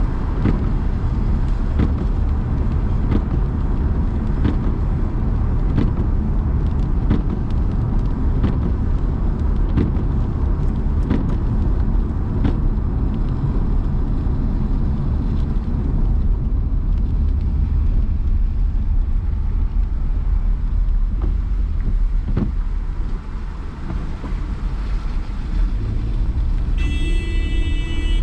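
Car driving in city traffic on a rainy day: a steady low road and engine rumble with scattered sharp ticks. Near the end comes a brief high-pitched tone lasting about a second.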